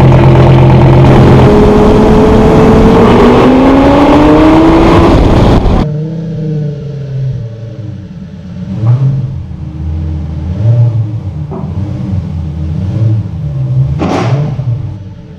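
Lamborghini engine and custom exhaust accelerating hard, very loud, with the pitch rising over the first few seconds. About six seconds in it cuts to a quieter stretch of the engine running, revs rising and falling repeatedly.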